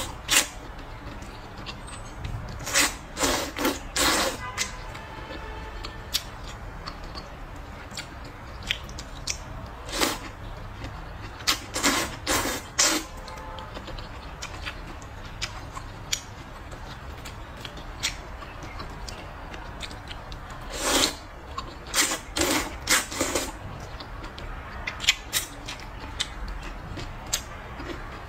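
Close-miked eating sounds: short wet slurps in three quick groups, with quieter chewing and mouth sounds between them, typical of slurping noodles in a mukbang.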